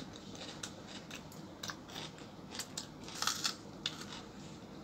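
People chewing and crunching food eaten by hand, crispy fried potato and chapati, with scattered soft crackles and clicks, a small cluster of them a little over three seconds in.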